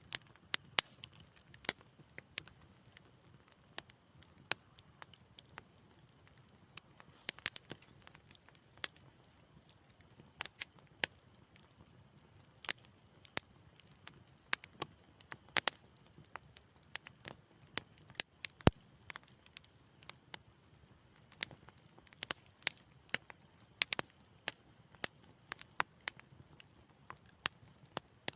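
Wood fire in a fireplace crackling gently: irregular sharp pops and snaps over a soft low rustle of the flames, with one louder pop about two-thirds of the way through.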